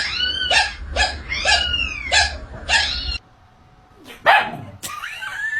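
A cat giving a run of short, bark-like calls, about two a second, each rising and falling in pitch; the run cuts off suddenly a little past halfway, and a couple of short cries follow near the end.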